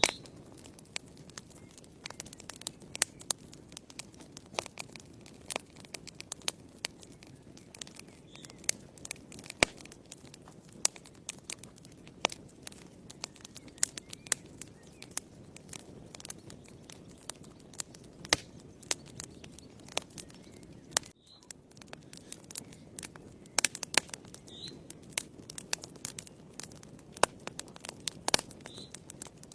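Wood fire in a fireplace crackling: irregular sharp pops and snaps, some loud, over a low steady rush of burning flames.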